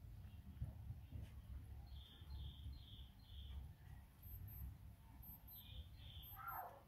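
Faint outdoor ambience under a low rumble, with a bird chirping in short repeated calls, four in quick succession and two more later, then a falling call near the end.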